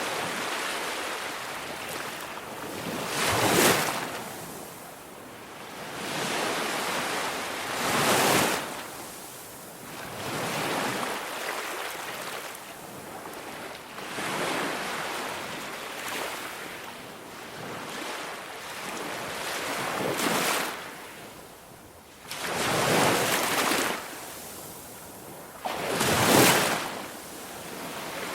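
Ocean surf: waves breaking and washing in, each surging up and falling back every few seconds.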